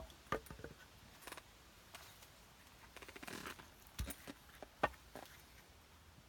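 Scattered light knocks and clicks, with a short rasping scrape about three seconds in, as objects are handled.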